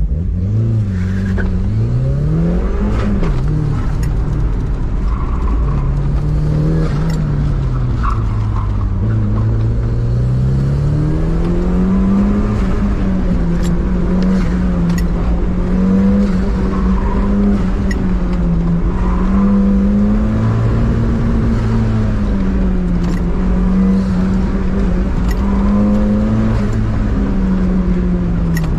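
Turbocharged 1.6-litre engine of a 1990 Mazda Miata, heard from inside the cabin, pulling away hard from a standstill. The revs then rise and fall over and over as the car is driven hard, accelerating and slowing through the turns.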